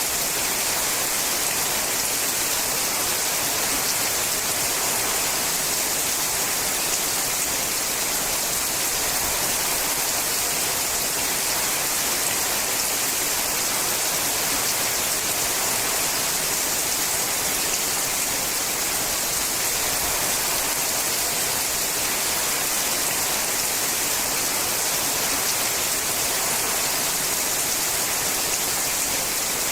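Rain falling on a sheet-metal roof: a dense, steady hiss of drops with no let-up.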